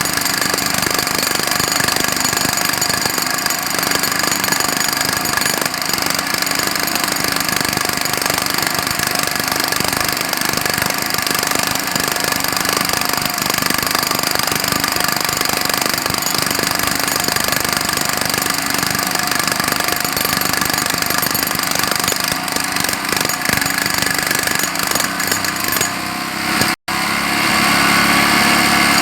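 Jackhammer hammering continuously in a dense, steady rattle. It cuts out for an instant near the end and comes back with a slightly different tone.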